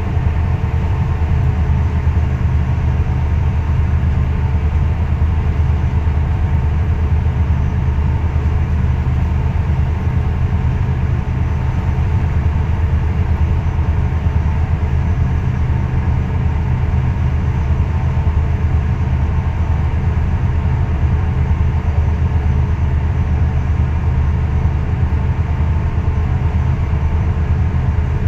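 Steady low drone of ship's machinery, running evenly without change.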